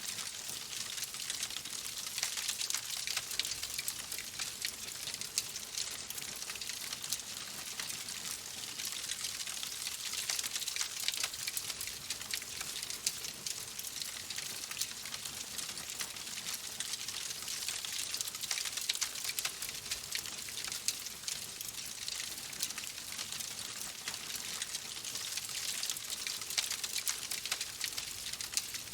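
Fireplace fire crackling steadily: a dense run of small sharp crackles and pops over a soft hiss.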